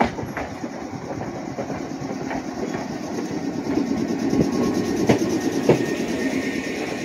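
Red Meitetsu electric local train running into the station past the platform, its wheels rumbling with scattered sharp clicks as they cross rail joints. The rumble grows louder after the middle, and a faint high tone comes in near the end.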